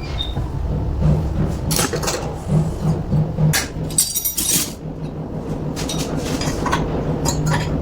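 Repeated clinks and knocks of hard objects being handled, a few ringing briefly, over a steady low hum.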